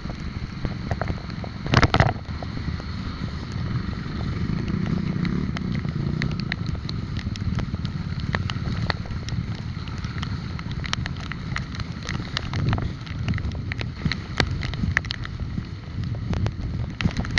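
Wind buffeting the microphone over road and traffic noise from a moving bike, with frequent small clicks and rattles and a brief loud burst about two seconds in.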